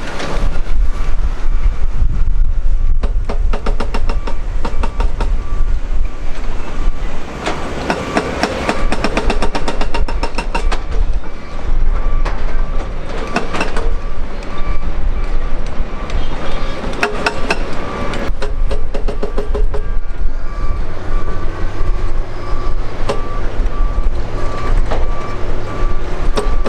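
Ilyushin Il-76's four D-30KP turbofan engines running at close range: a loud, steady rumble with a rough crackle through it and a thin whine.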